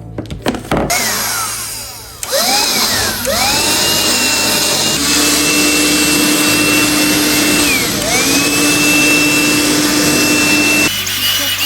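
An electric motor spinning up to speed with a rising whine, running at a steady pitch, dipping briefly and spinning back up, then cutting off near the end.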